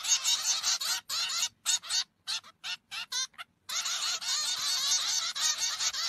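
A group of young songbird fledglings giving rapid, high-pitched begging chirps as they are hand-fed. The chirping breaks off in short gaps about halfway through, then resumes.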